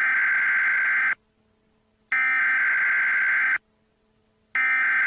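Emergency Alert System header tones, the warbling data bursts that open a weather-radio storm warning. Three buzzy bursts sound, each about a second and a half long, about a second apart.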